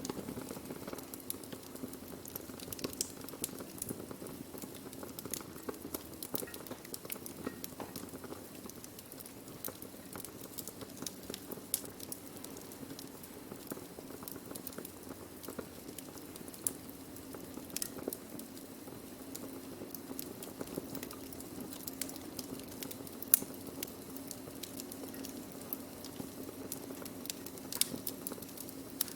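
Wood fire burning steadily: a low rumble of flames under irregular crackling, with occasional louder pops as the wood burns.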